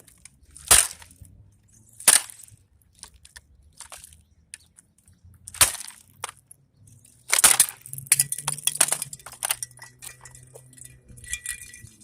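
A plastic vacuum cleaner housing being slammed against concrete to break it away from its electric motor: four hard impacts, the last followed by a clatter of cracking plastic and falling pieces.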